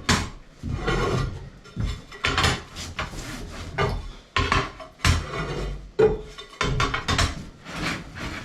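Loose tiles being lifted up and set down, clacking against each other and the base in a series of sharp knocks and clatters.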